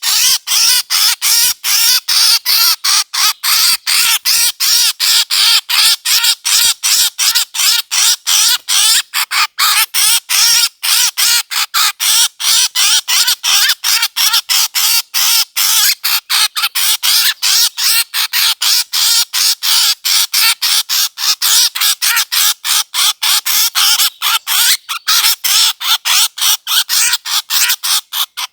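A recorded bird-luring call: a rapid, unbroken series of harsh squawking bird calls, about four a second, played on repeat as a lure for hunting birds.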